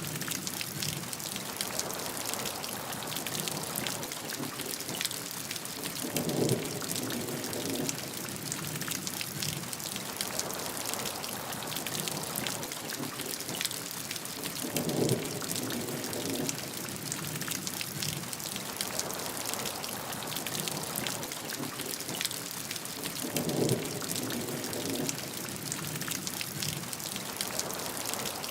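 Steady heavy rain falling on a surface, a dense hiss full of fine drop ticks. A brief low rumble swells up three times, evenly spaced about eight seconds apart.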